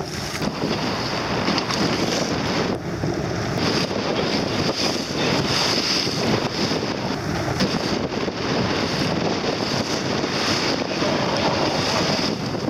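Wind buffeting the microphone over a steady rush of water from a boat under way.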